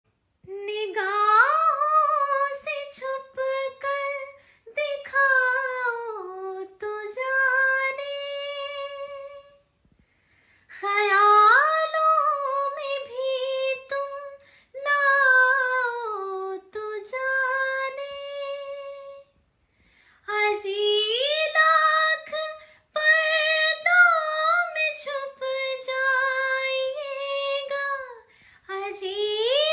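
A single high-pitched voice singing a Hindi song unaccompanied, in phrases of a few seconds with short breaths between them.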